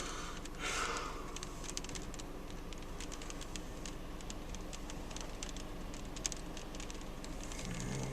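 Raindrops ticking irregularly on a parked car's roof and windshield, heard from inside the cabin, with a brief rush of noise just under a second in.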